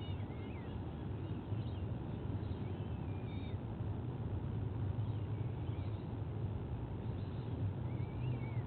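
Faint bird calls, a few short chirps that rise and fall in pitch, heard a handful of times over a steady low background rumble.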